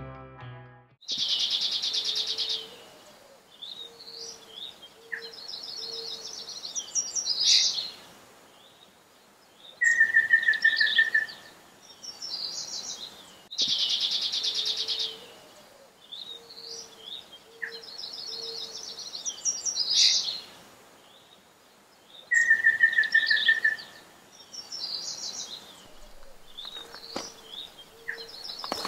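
Songbirds singing and calling: a harsh buzzy call, quick trilled phrases and a steady whistled note about a second long, the same sequence coming round again about every twelve seconds.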